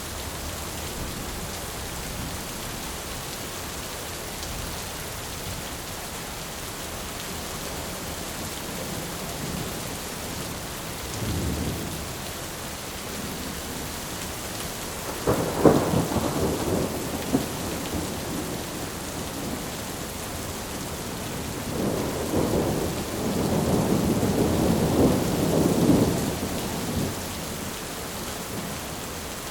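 Thunderstorm: steady rain hiss with thunder rumbling. A sudden, loud thunderclap comes about halfway through and rumbles for a couple of seconds, and a longer rolling rumble follows a few seconds later.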